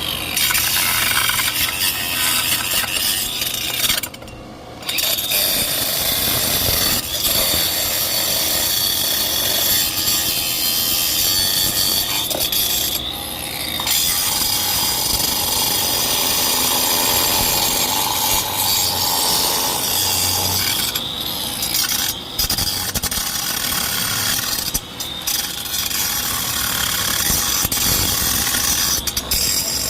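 Loud, steady machine noise from powered equipment running, with a few brief dips.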